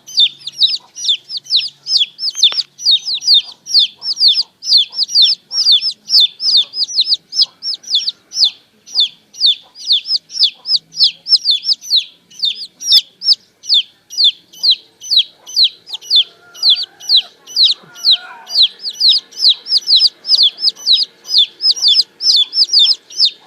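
Baby chicks peeping steadily: short, high, falling "cheep" notes, about four a second and overlapping.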